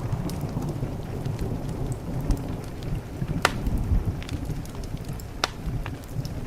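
Steady rain on a window under a low rumble of thunder, with a wood fire crackling and two sharp pops, about three and a half and five and a half seconds in.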